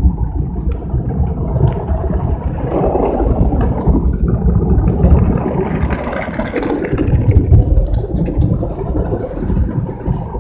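Automatic car wash working over the car, heard from inside the cabin: a loud low rumble with a rushing wash of spray that swells about halfway through.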